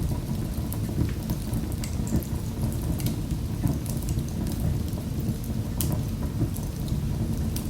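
Fire in a fireplace crackling: a steady low rumble of the flames with many scattered sharp pops and snaps.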